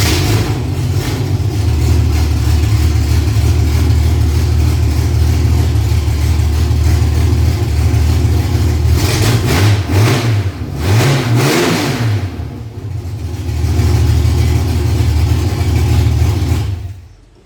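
Freshly rebuilt Ford Essex 3.0 V6 in a Ford Cortina on its first start-up: it catches at once and runs steadily. About halfway through it is revved a few times, then it settles back and shuts off suddenly near the end.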